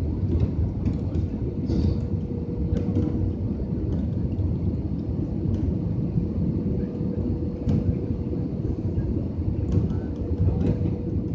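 Steady low rumble of an Airbus A320neo's jet engines during landing, with a thin steady hum above it and a few faint light clicks.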